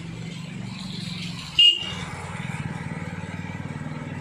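Heavy rain falling on a street, with a motor vehicle engine running steadily underneath. About one and a half seconds in comes one short, high-pitched toot, the loudest sound.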